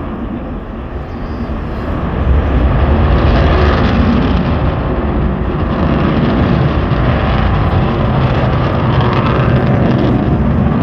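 Aircraft in flight: a loud, steady engine rush that swells about two seconds in and then holds.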